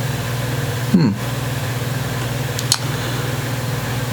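Steady low hum of a fan or air-conditioning unit running. About a second in comes a short falling vocal sound, like a muttered "hmm", and later a single sharp click.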